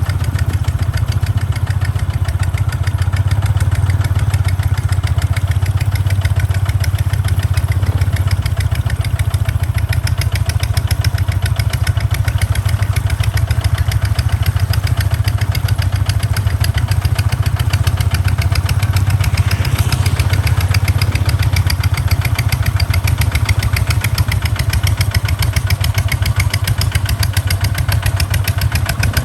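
Kubota tractor's diesel engine running steadily under load, with a fast, even pulsing beat.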